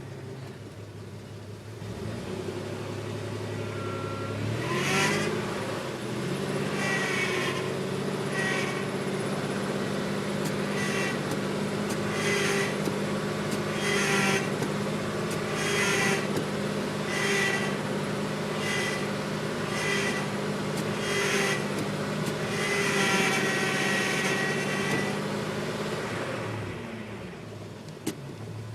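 A 1995 Chevy Astro's V6 is running while the power steering pump and hydroboost brake booster make a noise, on a system that had run nearly dry of fluid and has an unfound leak. About five seconds in, the running note rises in pitch and holds, with a higher-pitched whining pulse repeating every second or two. The pulses get longer near the end, then the note falls back.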